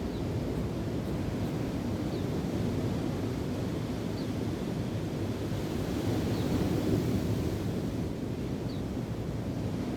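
Steady rushing of wind and waves, heaviest in the low end, with wind buffeting the microphone. Faint short bird chirps come every second or two.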